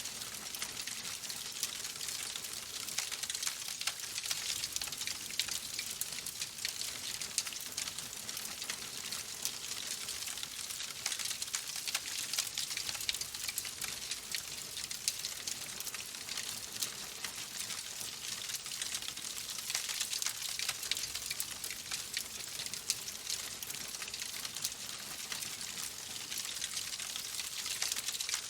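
Fire crackling steadily in a fireplace: a dense run of small pops and snaps over a soft hiss.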